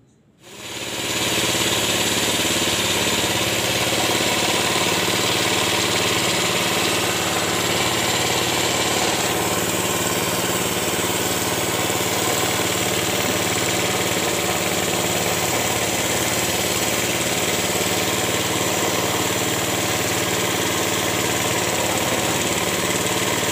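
Toyota Camry's 2AZ-FE 2.4-litre four-cylinder engine idling steadily, coming in about half a second in.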